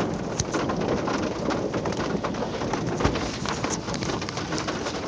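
Steady rain hiss with many sharp patters of raindrops striking close to the microphone.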